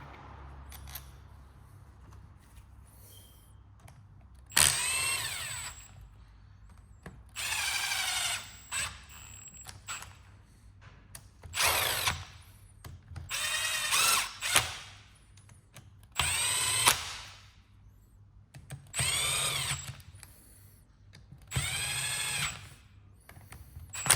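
Electric drill or driver run in about seven short bursts, its motor whining up to speed and winding down each time.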